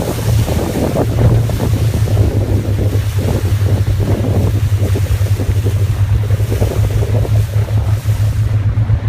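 Boat motor running with a steady low hum, under wind buffeting the microphone and the rush of sea water.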